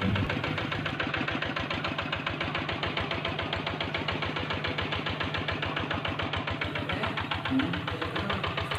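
Small tractor engine running steadily at idle with a fast, even chugging beat.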